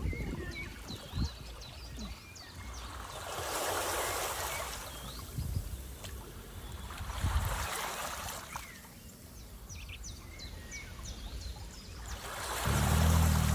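Waves washing in, swelling and fading in slow surges about four seconds apart, with small birds chirping and a few low knocks.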